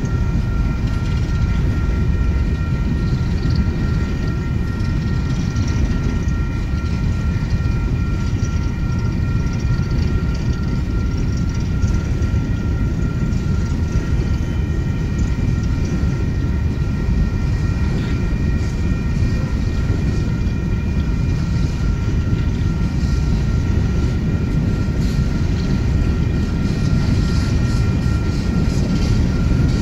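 Coal train's hopper cars rolling past at a grade crossing: a steady, loud rumble of wheels on rails, with a thin, steady high tone held over it.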